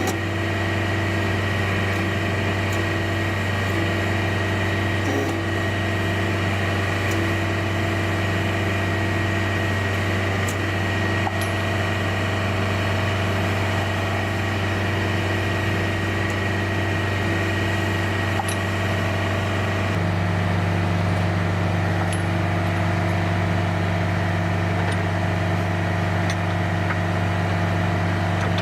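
Heavy diesel truck engine idling steadily, with a steady high-pitched whine over its low hum; the pattern of tones changes abruptly about twenty seconds in.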